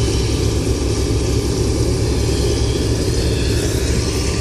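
Car engine idling steadily: a continuous low rumble under an even hiss.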